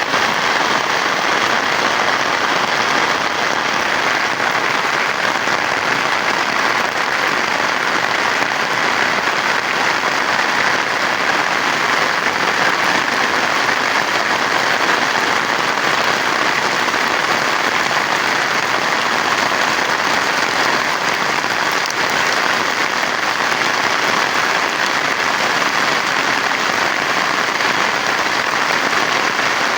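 Heavy rain falling steadily and loudly, an even wash of drops with no let-up.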